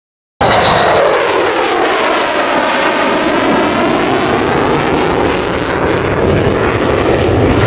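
An airplane flying low past overhead: a loud, steady rushing engine noise whose tone sweeps up and then down as it passes. It starts abruptly about half a second in.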